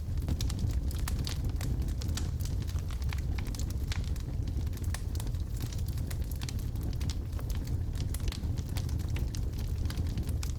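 Wood fire of burning logs crackling in a fireplace: a steady low rumble of the flames with frequent small, irregular pops and snaps.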